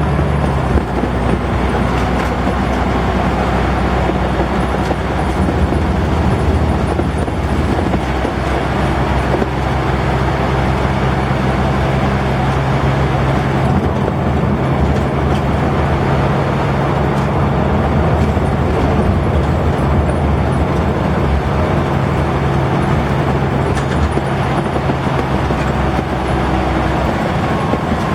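Scania N94UD double-decker bus's diesel engine running under way, a loud steady low drone whose pitch shifts a few times as the bus drives, over road and body noise.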